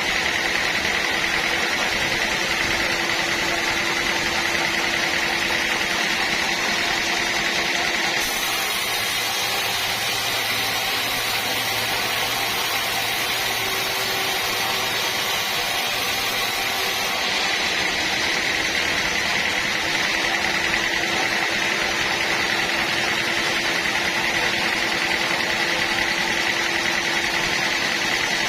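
Sawmill machinery running steadily with a constant high whine. About a third of the way in the sound changes for several seconds, with more hiss and a low hum, then returns to the earlier steady sound.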